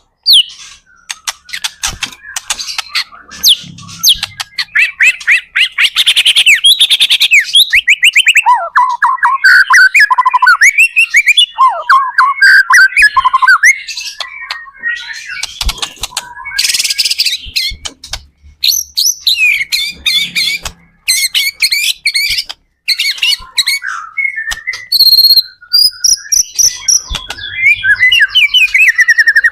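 White-rumped shama (murai batu) singing in full voice: a fast, varied run of loud whistled phrases, trills, sweeping notes and rapid clicking strokes with only brief pauses.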